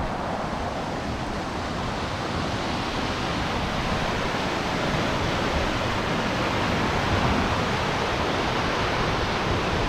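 Steady rushing of floodwater pouring over a small waterfall in a flowing wadi.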